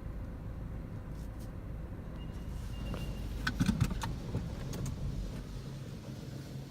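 Inside a car in a Belanger Freestyler automatic car wash: a steady low rumble, a brief high beep about two and a half seconds in, then a quick cluster of clicks and knocks between about three and a half and five seconds in.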